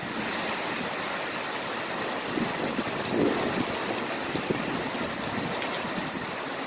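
Heavy rain falling in a thunderstorm, a steady hiss.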